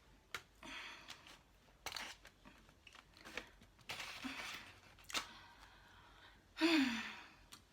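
Close eating sounds of jerk chicken: chewing, tearing and crunching with small clicks and rustles. Near the end comes one short falling vocal hum.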